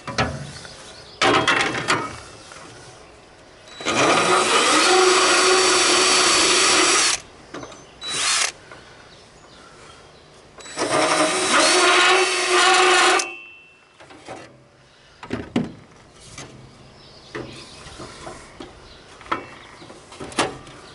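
Cordless power tool widening a cut in a plastic mower hood, its motor running at a steady pitch in two runs of about three seconds each, with a few brief blips before and between them.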